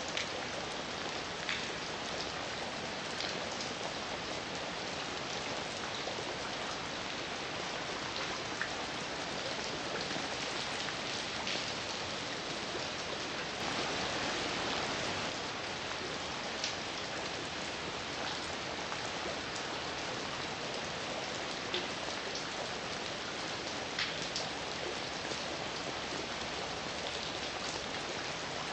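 Heavy rain falling steadily, an even hiss with scattered sharper drop hits landing on a surface; it swells slightly louder about halfway through.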